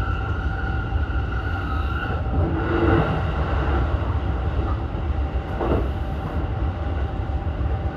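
JR East E233-1000 series commuter train running between stations: steady low rumble of wheels and running gear under a steady electric motor whine. A brief louder rush comes about three seconds in, and a shorter one near six seconds.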